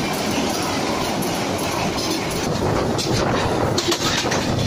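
Bangladesh Railway passenger train running on the rails: a steady rumble of the coaches with wheels clattering over the track, and sharper clicks in the last two seconds.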